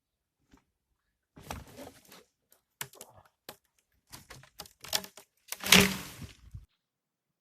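A run of irregular knocks, clicks and short scraping sounds, like objects being handled, loudest a little before the end.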